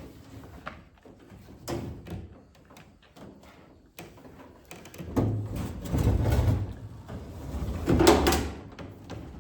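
Microwave oven being handled and shifted on a work surface: scattered knocks and clicks, a spell of scraping and rumbling about five seconds in, and a heavy thump just past eight seconds as it is set down.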